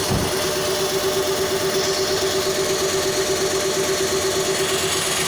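Toyota 2NZ-FE 1.3-litre four-cylinder petrol engine idling steadily with an even pulse, being test-run before removal. A brief low thump sounds right at the start.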